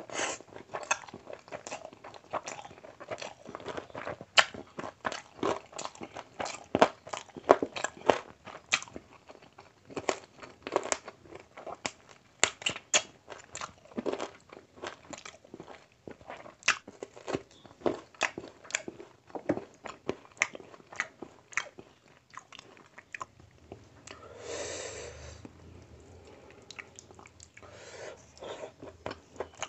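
Close-up mouth sounds of a person eating rice and mutton curry by hand: chewing with irregular sharp smacks and clicks, several a second. A softer, breathier sound comes about 24 seconds in.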